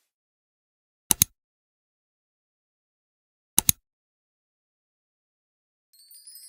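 Two quick double clicks, each pair two sharp ticks in a row, about two and a half seconds apart, against dead silence; faint chiming music begins near the end.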